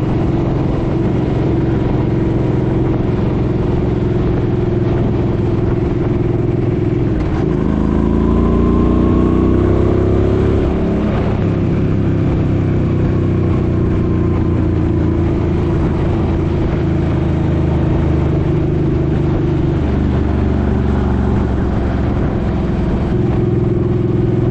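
Suzuki Boulevard M50's 805 cc V-twin engine running on the road, with wind rumbling over the microphone. About seven seconds in, the engine pitch rises for about three seconds as the bike accelerates, then drops back to a steady drone.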